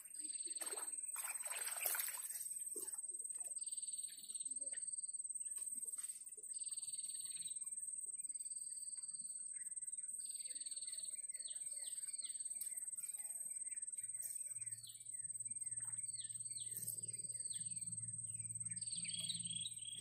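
A bird calling repeatedly with short, high whistled notes, several of them sliding downward in quick runs later on, over a steady high-pitched insect drone. Rustling handling noise in the first couple of seconds, and a faint low hum joins about fifteen seconds in.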